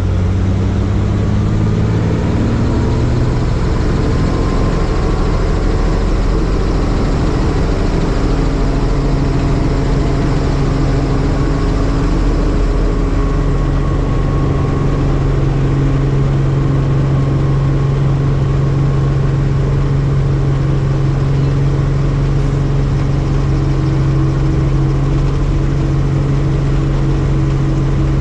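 Helicopter engine and rotor running steadily. The pitch rises over the first few seconds, then holds.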